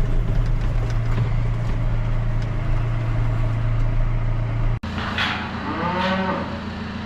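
A diesel tractor engine runs with a steady drone. After an abrupt cut about five seconds in, a cow moos loudly over the engine, and a fainter moo follows near the end.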